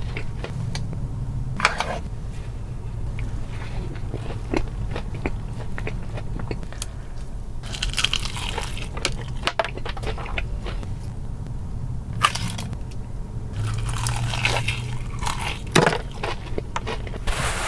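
Close-miked eating of KFC fried chicken: crisp breading crunching and crackling in irregular bites, with several denser bursts of crunching, over a low steady hum.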